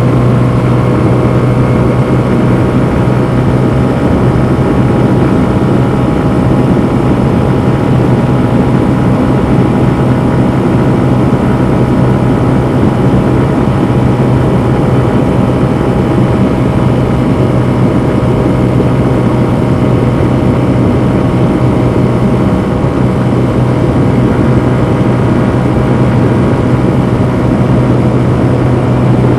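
2021 Honda CB125F's 125 cc air-cooled single-cylinder engine running loud under load at steady revs, its pitch held constant, heard onboard the moving motorcycle over a steady rush of wind and road noise.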